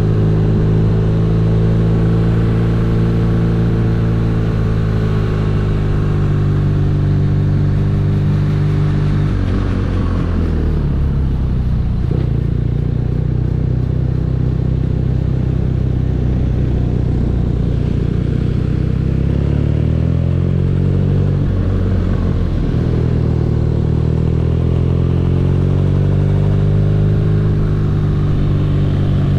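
BMW R nineT's air/oil-cooled boxer twin running under way. It rolls off about a third of the way in, runs at low revs for several seconds, then picks up steadily from about two-thirds in and holds a cruising note near the end.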